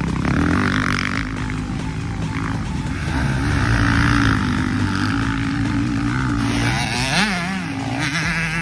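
Motocross dirt bike engines revving on the track, their pitch climbing and dropping with throttle and gear changes, with quick up-and-down blips of the throttle about seven seconds in.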